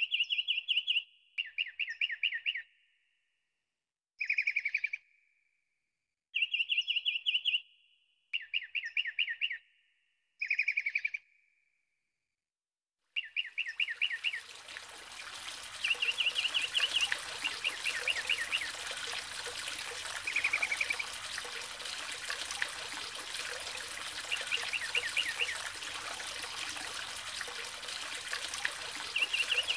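A bird calling in short phrases of rapid chirps, about six times with silences between. About 13 seconds in, the steady sound of a flowing mountain stream comes in, with the chirping phrases continuing over it.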